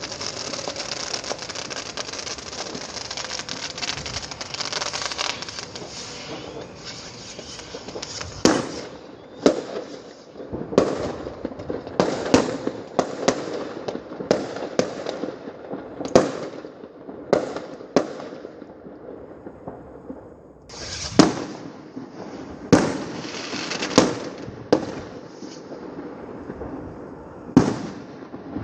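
Fireworks going off: a dense spell of crackling for the first several seconds, then a string of sharp bangs at irregular intervals, roughly one a second.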